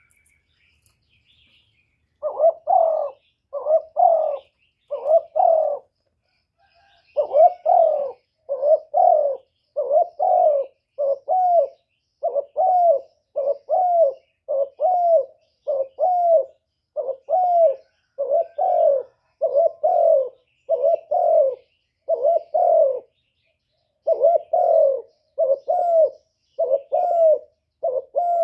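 Spotted dove (cu gáy) decoy male cooing: a long run of short, deep coos, roughly one a second, starting about two seconds in with two brief pauses. This is the rapid 'gù' cooing that keepers use to lure and provoke wild doves. Faint chirps of small birds come before the cooing starts.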